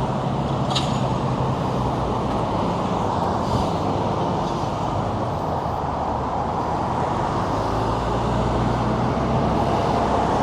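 Road traffic: motor vehicles running nearby, a steady low engine hum under an even rush of traffic noise.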